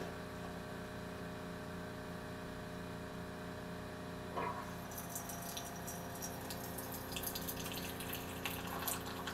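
Keurig K-2550 commercial brewer running a regular-strength brew: a steady hum from its water pump, joined about five seconds in by liquid trickling and crackling as it starts to dispense.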